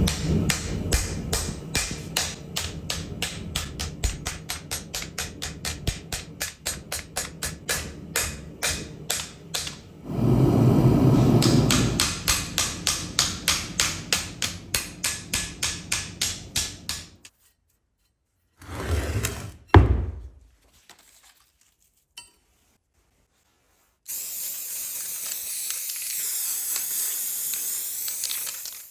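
Hand hammer forging hot leaf-spring steel on an anvil: rapid ringing blows at about four a second for most of the first half, with a louder steady rushing noise under them for a couple of seconds. After a near-silent gap and two short loud knocks, a steady high-pitched rushing noise starts near the end.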